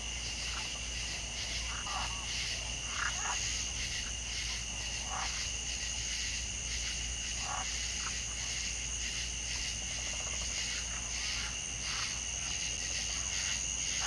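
Night chorus of insects making a steady high-pitched trill, with frogs croaking in several short, scattered calls.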